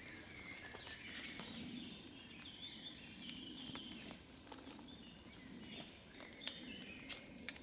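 Faint woodland ambience: small birds chirping in short calls over a low steady hiss, with a few scattered sharp ticks.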